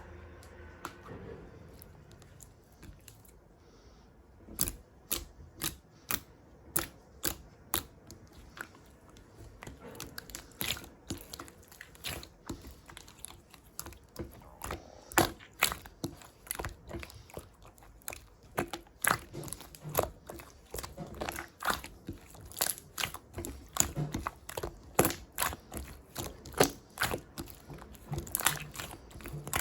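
Irregular sharp clicks and crunchy crackles. After a few quiet seconds they start a few at a time, then come thick and fast.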